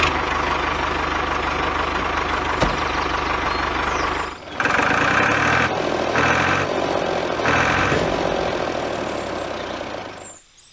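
An engine running with a steady mechanical noise. It cuts out briefly about four seconds in, then runs again with three rhythmic surges before fading away near the end.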